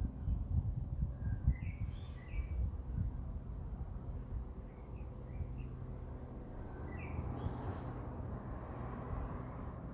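Small birds chirping in short, scattered high notes, busiest about two seconds in and again near eight seconds, over a steady low rumble and hum.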